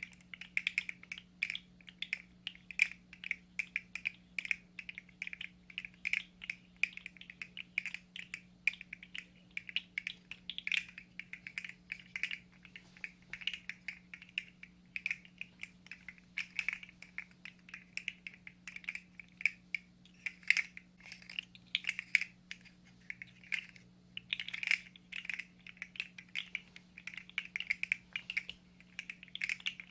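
Fast, irregular small plastic clicks and clatter close to the microphone, several a second, over a faint steady low hum.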